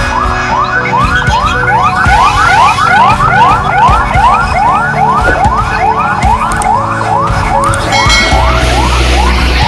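Electronic emergency siren sounding in a fast yelp, a rising wail repeating about three times a second. About eight seconds in it briefly switches to a steady stepped tone, then goes back to the yelp.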